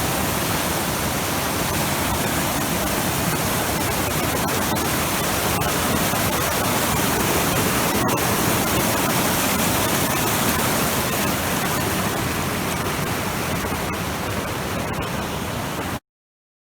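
Steady rushing water of a mountain stream, even and unbroken, cutting off suddenly near the end.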